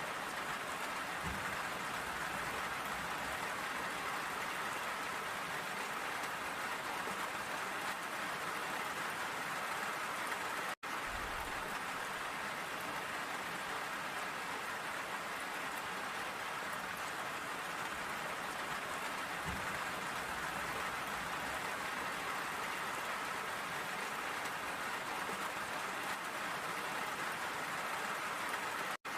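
Steady rain falling, an even continuous hiss of drops. It cuts out for an instant about eleven seconds in and again near the end.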